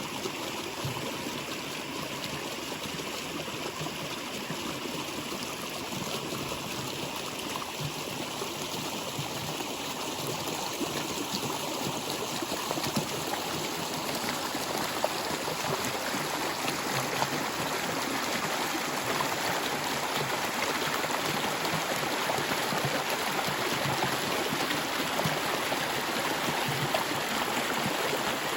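Water flowing steadily in a continuous rush with fine splashing, growing a little louder about halfway through.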